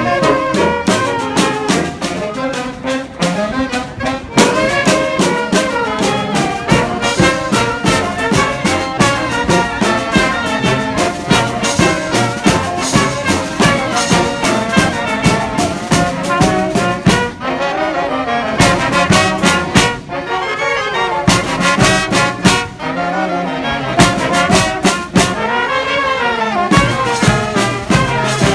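A brass marching band playing live: trumpets and trombones carry the tune over drums that keep a steady, busy beat.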